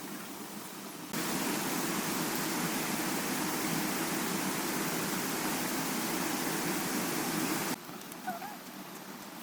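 Steady rushing noise that starts abruptly about a second in and cuts off sharply near the end.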